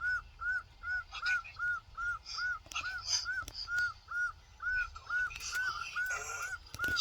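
A gull calling over and over, short arched notes at an even pace of about two a second, with other gulls' harsher, higher cries mixed in.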